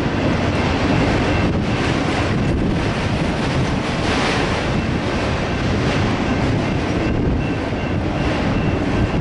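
Empty autorack freight cars rolling past on the rails, a steady, loud rumble and rattle of wheels and car bodies that does not let up.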